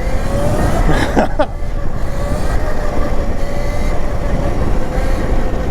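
Mini electric dirt bike riding on a trail: a steady electric motor whine over heavy low wind and tyre rumble, with a brief voice about a second in.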